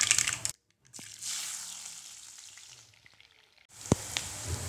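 Mustard seeds crackling and sizzling in hot oil in a non-stick pan, the hiss fading away. Then small onions sizzling in the oil, with a couple of sharp knocks near the end as a wooden spatula strikes the pan.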